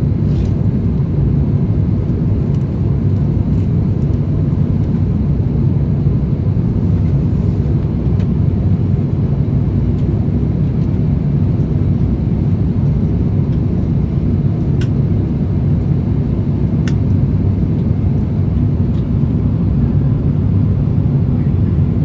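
Steady low rumble of an Airbus A350-1000 jet airliner, unchanging in level, with two faint ticks in the second half.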